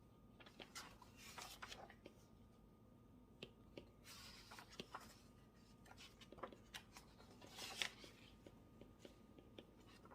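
Faint desk sounds of someone studying: paper rustling and handling with scattered small clicks and taps, a short scratchy stretch about four seconds in and a sharper rustle near eight seconds.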